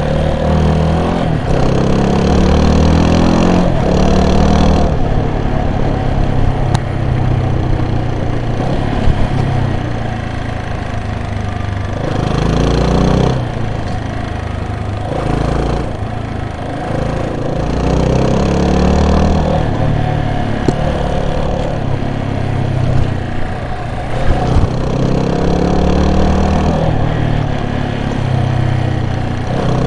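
Vehicle engine under way, its pitch rising and falling repeatedly as it revs up through the gears and eases off, with occasional knocks and rattles from the rough road.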